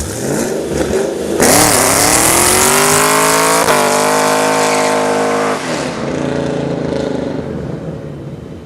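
Car engine revving hard as it accelerates, its pitch climbing and dropping back sharply twice, then easing off and fading away.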